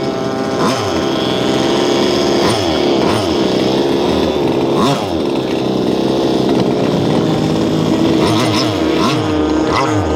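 Small gas two-stroke engine of an RC speedboat running, its pitch rising and falling over and over as the throttle is worked. The engine is new and being broken in.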